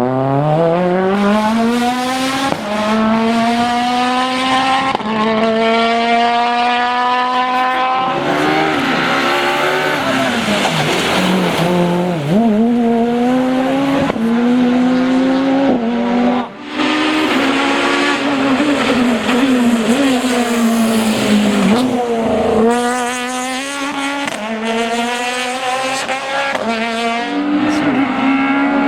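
Peugeot 206 Maxi Super 1600 rally car's high-revving engine at full throttle, pitch climbing steeply and dropping back at each upshift, then a stretch of downshifts and throttle blips under braking before it accelerates through the gears again.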